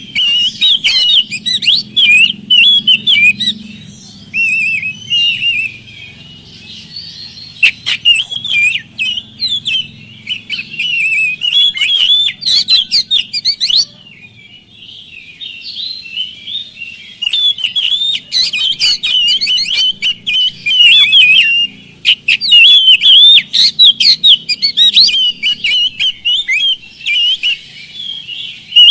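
Oriental magpie-robin (kacer) singing a loud, fast, varied song of whistles and chattering trills, delivered in bursts with short pauses between them.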